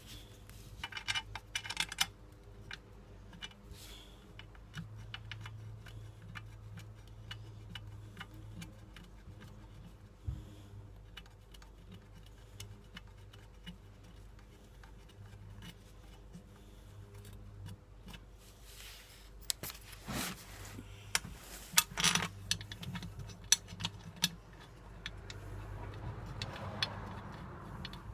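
Scattered metallic clicks and clinks of hand tools and fasteners being handled, in clusters about a second in and again past the middle, over a low steady hum.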